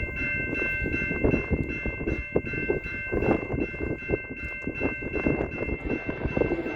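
A freight grain train rolling past, its wheels knocking irregularly over the rails under a steady rumble. Several steady high-pitched tones ring over it, one of them fading out about five seconds in.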